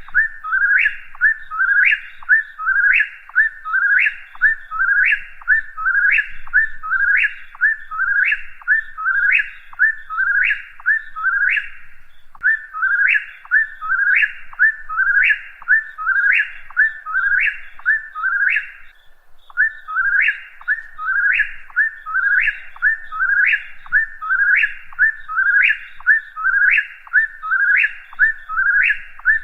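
Whip-poor-will singing its whistled "whip-poor-will" song over and over, about three phrases every two seconds, each ending in a sharp upward sweep. The run breaks briefly about twelve seconds in and again about nineteen seconds in.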